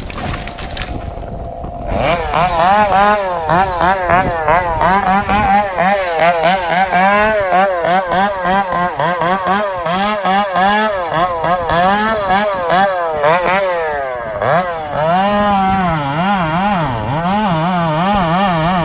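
Chainsaw running: low and steady at first, then about two seconds in it jumps to high revs. After that its engine pitch rises and falls rapidly, two to three times a second, and it holds steadier near the end.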